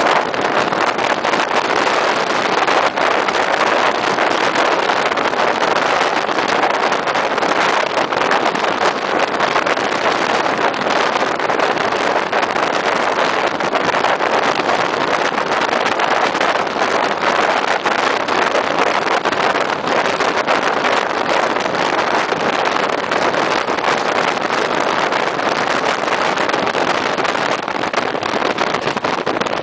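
Steady rushing noise of a diesel multiple unit train running at speed, mixed with wind on the microphone, holding the same level throughout with no approach or fade.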